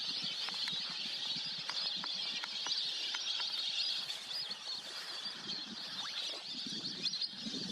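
Many birds calling at once: a dense, continuous chatter of high chirps with scattered short clicks.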